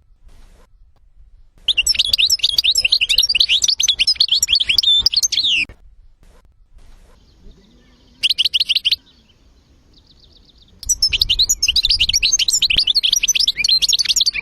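European goldfinch song: rapid, high twittering phrases in three bursts, a long one about two seconds in, a short one past the middle and another long one near the end.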